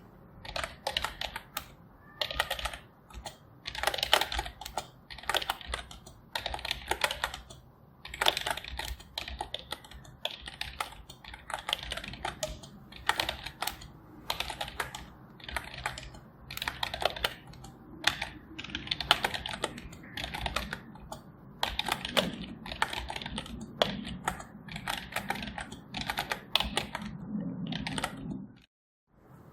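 Typing on a computer keyboard: rapid keystrokes in bursts of a second or two, with short pauses between them. The typing stops briefly near the end.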